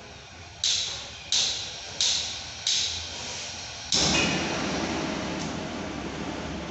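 Four sharp knocks about two-thirds of a second apart, each ringing briefly. About four seconds in, a steady rushing noise starts suddenly and keeps going, as from kitchen work.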